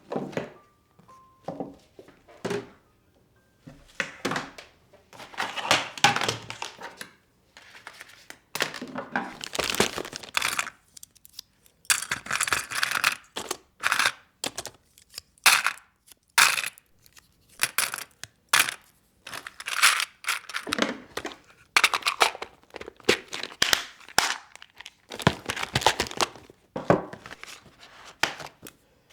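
Rustling and crinkling of something being handled by hand, in a string of short bursts with brief pauses between.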